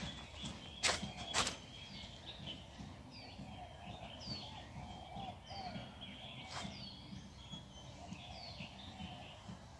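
Birds chirping in short, repeated falling notes over a low outdoor rumble, with two sharp clicks about a second in.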